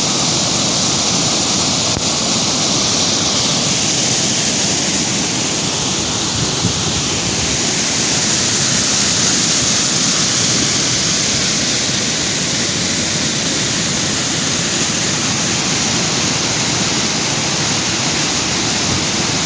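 Waterfall: a loud, steady rush of falling water that holds even throughout.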